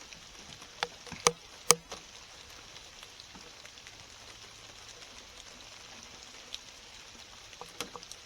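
Steady heavy rain falling, with a few sharp clicks or taps about a second in and again near the end.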